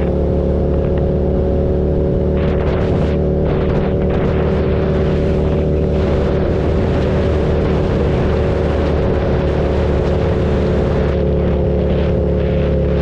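KTM 1290 Super Duke's V-twin engine running at a steady speed while riding, with wind noise on the microphone that rises in the middle and eases near the end.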